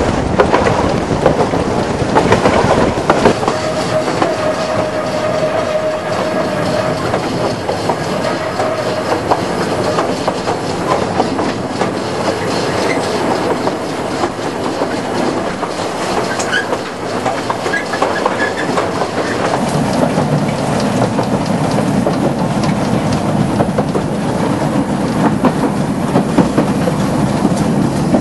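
Two-foot narrow-gauge train running along light rail, heard from on board, with its wheels clattering over the rail joints. A lower rumble grows stronger about two-thirds of the way through.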